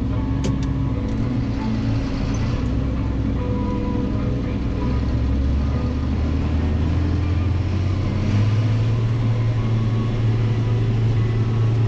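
Engine of harvest machinery running steadily. Between about six and eight seconds in, its note steps up and then holds at the higher pitch as the engine speeds up.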